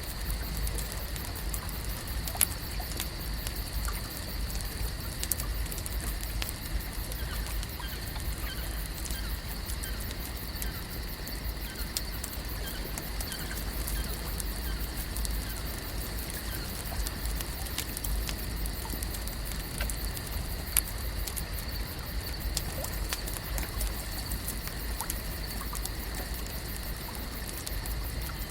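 Layered lake ambience: a steady wash of water and low rumble under a constant high-pitched drone, with faint scattered chirps and occasional sharp clicks, the loudest about two and a half seconds in and again about twenty-one seconds in.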